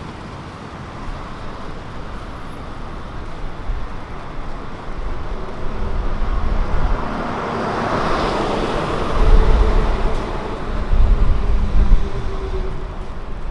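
Street traffic with a motor vehicle passing close by: the tyre and engine noise swells to a peak about eight seconds in, then eases, with a deep rumble over the following few seconds.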